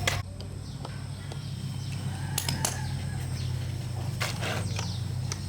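A steady low hum with a fast, even pulse, under a few sharp clicks and brief high calls.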